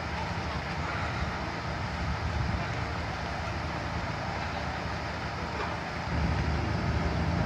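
Engines running with a steady low rumble, getting louder about six seconds in.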